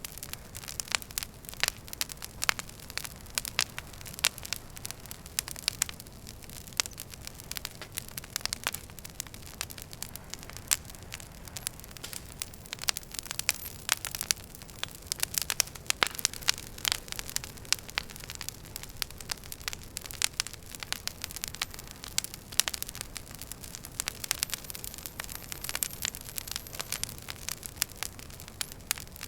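Wood fire burning in a fireplace, crackling with frequent irregular pops and snaps over a steady low hiss and rumble. A faint high whistle sounds briefly about three-quarters of the way through.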